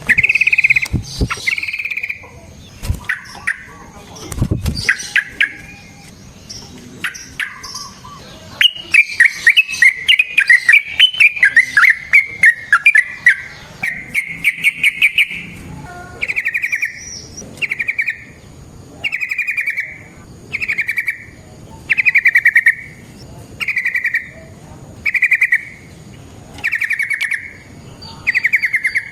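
Yellow-vented bulbul (trucukan) singing loud bubbly phrases: a long rapid rolling run partway through, then short phrases repeated about every second and a half. A few sharp clicks sound in the first few seconds.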